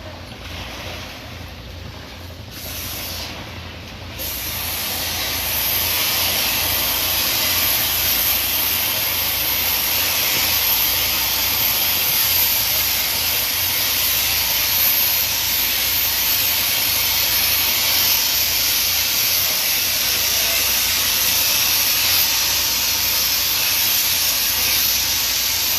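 A steady, loud hiss that comes in about four seconds in and holds evenly, over a low rumble.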